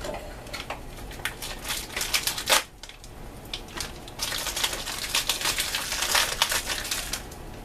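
Plastic MRE accessory packet being torn open and handled: irregular crinkling, rustling and clicking of the wrapper, with one louder crackle about two and a half seconds in.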